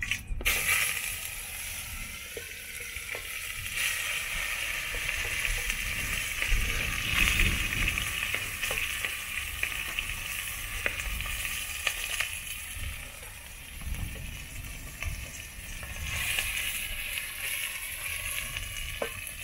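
Chopped raw liver sizzling in a hot aluminium pot over a wood fire, a steady hiss that swells a few seconds in as more liver is scraped in, with occasional sharp clicks.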